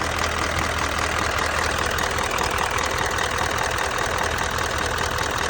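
Engine idling with a steady ticking (clicking) that the owner hears from the right side of the engine and cannot identify.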